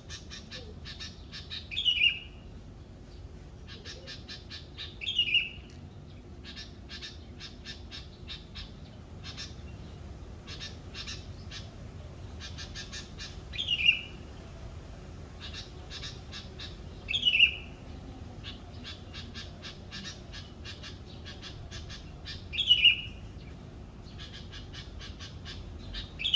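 Birds calling in the morning. A loud, short, harsh call that falls in pitch comes five times at irregular gaps of a few seconds, over a constant fast chatter.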